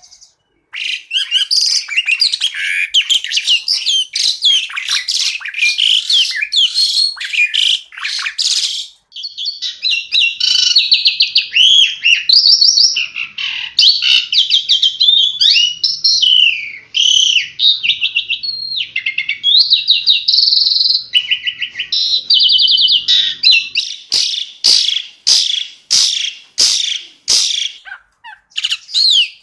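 Pied starling (jalak suren) singing a long, varied song of rapid trills, whistled glides and chattering notes, with a short break partway through. Near the end it gives a run of sharp, evenly spaced clicking notes.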